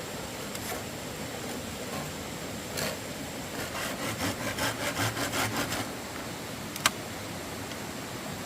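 Bamboo being cut with a hand saw: a run of quick, even saw strokes, about five a second, lasting a couple of seconds, followed by a single sharp knock, over a steady background hiss.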